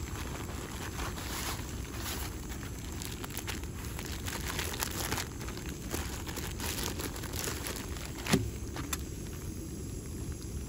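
Outdoor ambience on a rainy day: a steady low rumble with scattered light ticks and crackles, and one sharper click about eight seconds in.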